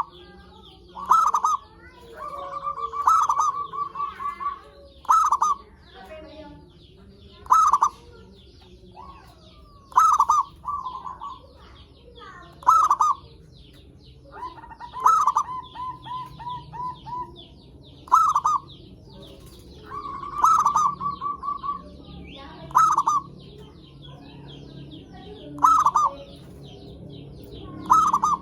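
Zebra doves cooing: short loud coos every two to three seconds, with rapid rolling trilled coos between them. Faint high chirping from small birds runs underneath.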